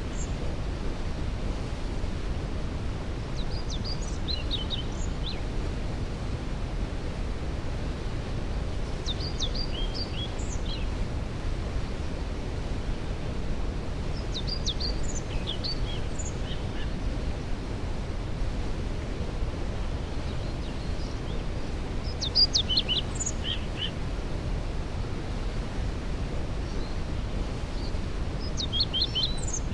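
Steady rushing noise of a waterfall in the background, with a songbird singing a short phrase every five to seven seconds.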